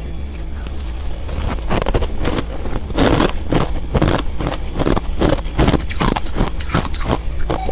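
Crunchy freezer frost crunching in a quick run of strokes, about two to three a second, starting about a second and a half in, over a steady low hum.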